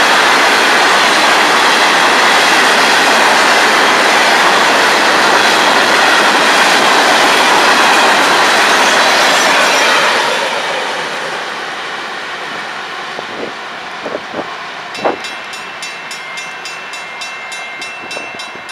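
FEC freight train's open-top cars rolling past close by, a steady clatter of wheels on rail. About ten seconds in it drops to a fainter rolling sound with a few clanks, and near the end a faint, rapidly repeating high tone comes in.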